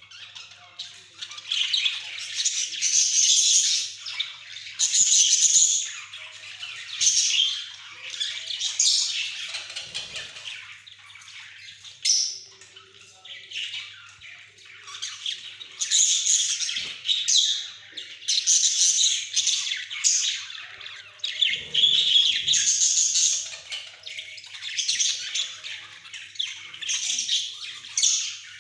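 Pet budgerigars chattering, warbling and squawking continuously, in repeated loud bouts of rapid high chirps. A faint steady hum lies underneath, and a couple of dull low knocks come about a third of the way in and again past the middle.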